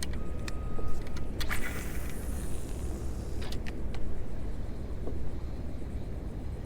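Wind buffeting the microphone in a steady low rumble, with a few sharp clicks and a brief high hiss about a second and a half in.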